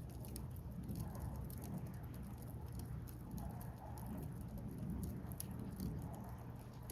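Wood fire crackling, with many small sharp pops and snaps over a steady low rush.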